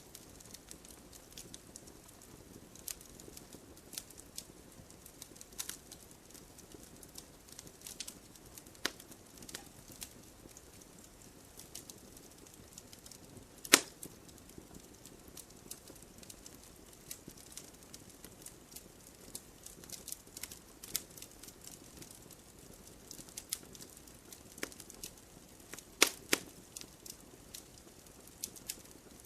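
Wood fire crackling in a fireplace: irregular sharp pops and snaps over a low steady rush of flame. The loudest pop comes about fourteen seconds in, and a quick cluster of pops follows near the end.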